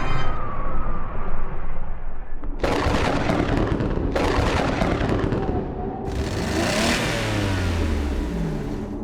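Cartoon action sound effects: a rumbling noise, then several sudden whooshing surges, with falling tones near the end.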